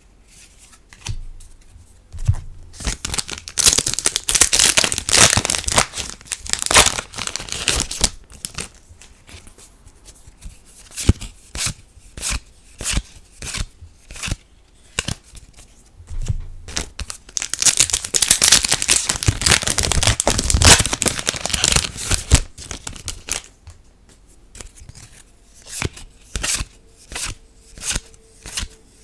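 Foil trading-card booster packs torn open and crinkling in two long spells, with the cards inside handled and flicked through in short sharp clicks between them.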